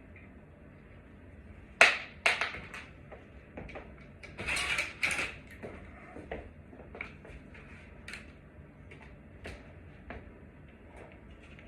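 Knocks and clicks of hard objects being handled: a sharp knock about two seconds in and a few more just after, a scraping rustle a couple of seconds later, then scattered lighter clicks.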